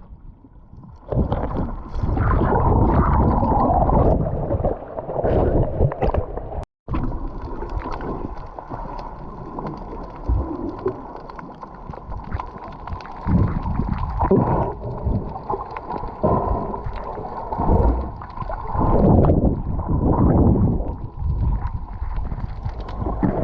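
Water sloshing and gurgling close to the microphone, with wind buffeting it.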